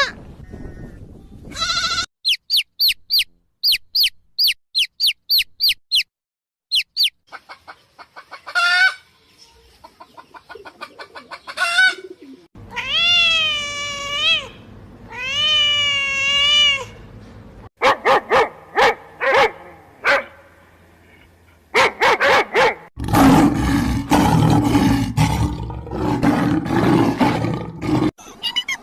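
A succession of different animal calls, cut one after another. First comes a rapid series of short, high chirps. Two long, wavering calls follow in the middle, then a group of short calls, and a loud, noisy stretch near the end.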